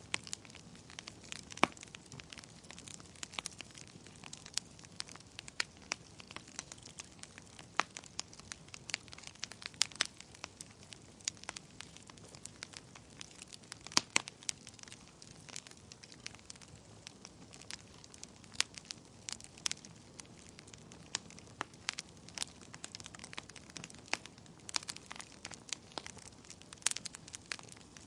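Wood fire burning in a fireplace: irregular sharp crackles and pops, several a second, over a soft steady hiss, with a few louder pops now and then.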